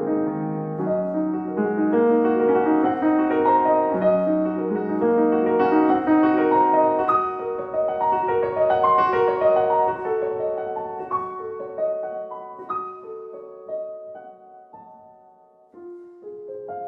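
Slow solo piano music, a gentle melody with sustained chords that thins out and fades, then a new phrase begins near the end.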